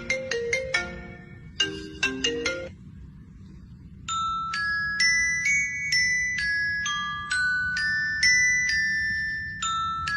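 A tinkling melody of struck, bell-like notes in a glockenspiel or ringtone style. It opens with quick runs of short notes, pauses for about a second, then goes on with slower, longer notes that step up and down.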